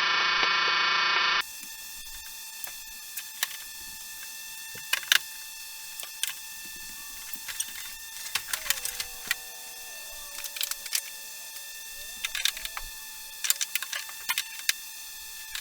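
A loud, steady pitched sound cuts off abruptly about a second and a half in. After it, scattered light clicks and taps, like small parts being handled, play over a faint steady hum.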